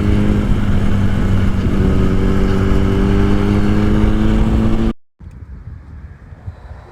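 Motorcycle engine running at a steady pitch under way, with wind rush, then cut off abruptly about five seconds in; after a brief silence only quieter wind and road noise remain.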